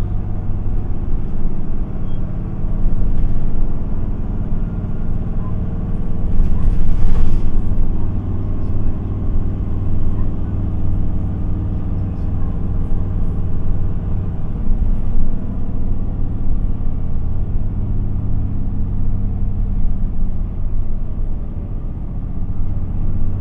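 Inside an Isuzu Erga city bus (QPG-LV234L3): steady hum of its diesel engine and running gear. A short rush of hiss about seven seconds in is the loudest moment.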